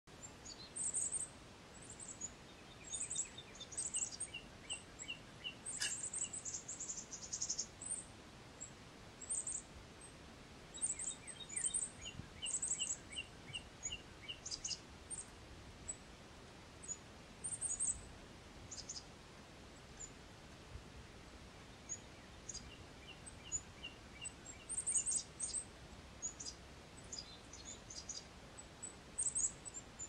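Small wild birds calling: many short, high chirps scattered throughout, and three times a run of about six evenly spaced notes. A steady faint outdoor hiss lies beneath.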